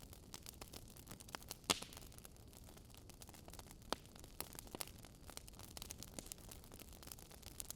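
Wood fire crackling: irregular sharp pops and snaps from burning logs over a faint steady hiss, with a louder pop about a second and a half in and another near four seconds.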